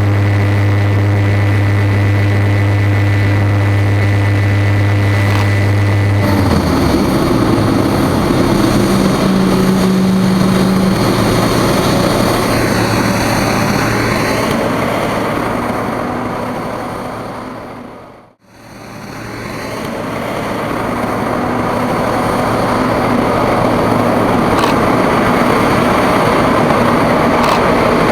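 Boeing 787-8 Dreamliner jet engine noise: a steady low hum for the first six seconds, then a broad rushing noise. It fades out and back in about eighteen seconds in.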